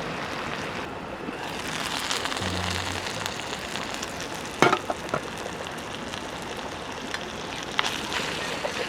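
Food sizzling steadily in a pan over a campfire, with a sharp knock about halfway through.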